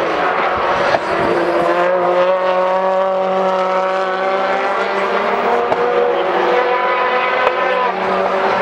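British Touring Car race car engine, a turbocharged two-litre four-cylinder, running hard on track at high revs; its pitch holds fairly steady, then drops near the end.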